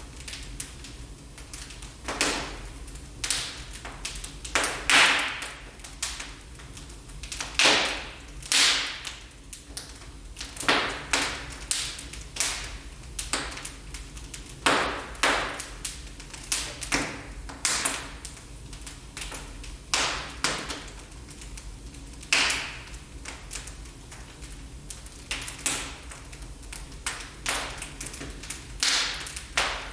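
Wood fire in a fireplace crackling, with irregular sharp pops, some louder, every second or so over a low steady rumble.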